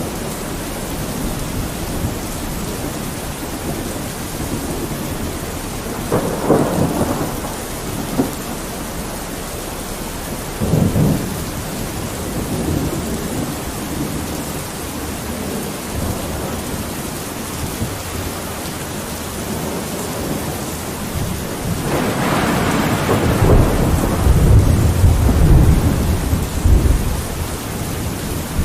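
Steady rain with rolling thunder: short rumbles around six and eleven seconds in, then a long, louder low rumble over the last several seconds.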